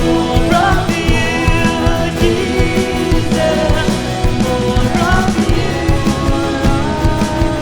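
Worship song in a rock band style: a singing voice over drum kit and guitar with a steady beat.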